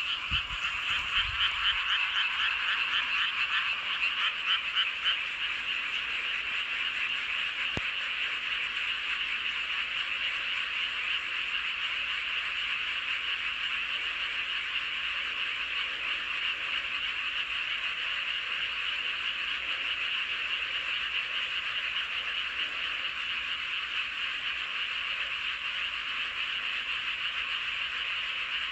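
A dense chorus of many frogs calling together, a continuous mass of rapid croaks. It is louder and more pulsing in the first few seconds, then settles into a steady din.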